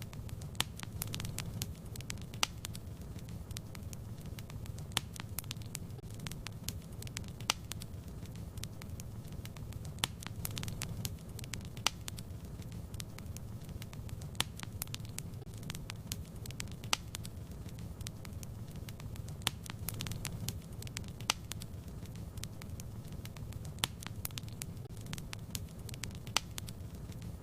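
Fireplace fire crackling: a steady low rumble of flames with irregular sharp pops and snaps, about one or two a second.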